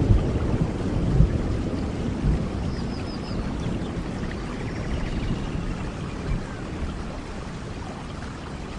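Rainforest thunderstorm: a low thunder rumble fading away under steady, heavy rain, with small swells of rumble about one and two seconds in. A faint run of short high chirps sounds about three seconds in.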